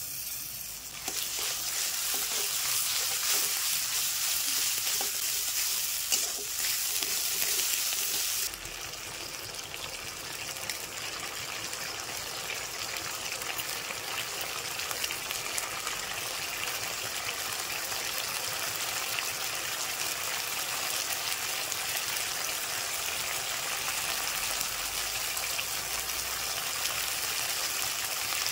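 Wet paste of ginger, garlic, cumin, coriander, fennel, chilli and onion sizzling in hot oil in a steel kadai. The sizzle jumps up about a second in as the paste hits the oil, eases a little about eight seconds in, then carries on steadily.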